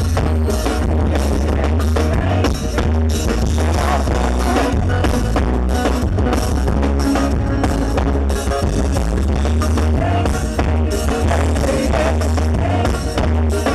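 Live band music with a heavy, steady bass line and a regular drum-kit beat.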